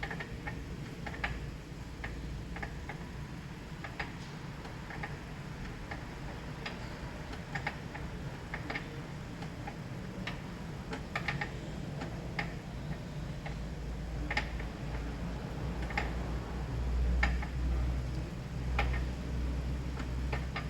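Irregular light clicks and taps of hand work on a car engine, about one or two a second, over a low steady hum that swells briefly near the end.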